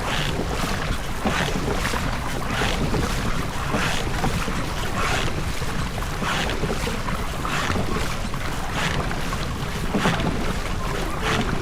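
Oars of a rowing boat working the water in a steady stroke rhythm, a swish about every 1.3 seconds, over constant wind rumble on the microphone.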